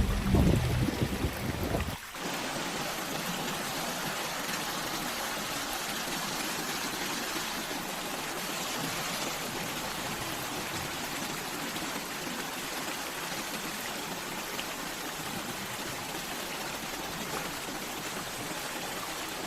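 Steady rushing of floodwater flowing through a street. It is an even, unbroken noise with no pauses. For the first couple of seconds the tail of background music lies louder over it, then cuts off abruptly.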